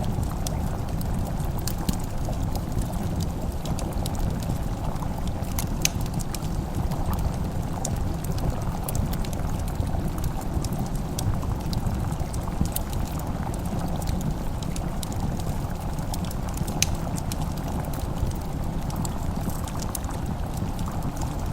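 Fire crackling in a fireplace: frequent small sharp pops and snaps over a steady low rumble.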